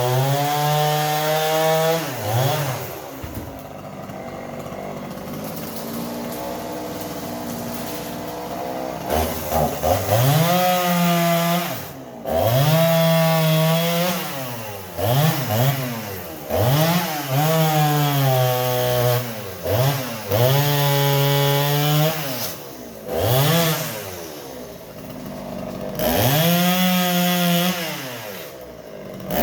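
Chainsaw cutting a kachnar tree: the engine drops to a lower, steady idle for several seconds early on, then is repeatedly revved up and let back down, every second or two, through the rest of the stretch.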